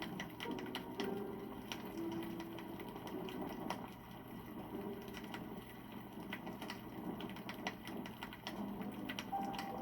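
Wood campfire crackling: a steady run of irregular snaps and small pops.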